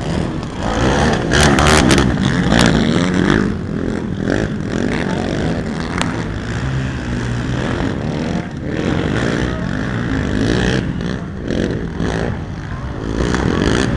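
Racing ATV (quad) engines revving and running around a motocross track, their pitch rising and falling as riders throttle on and off. A few sharp knocks come between about one and three seconds in.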